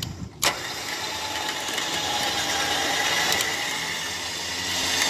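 A motor running steadily with a mechanical whir, after a sharp click about half a second in.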